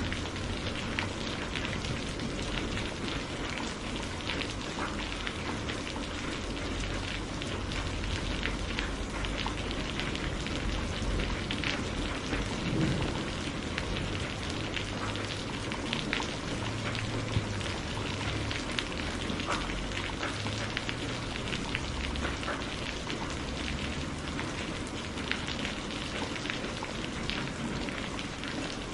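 Steady rainfall: a constant hiss dotted with many small, sharp drop hits, over a low rumble.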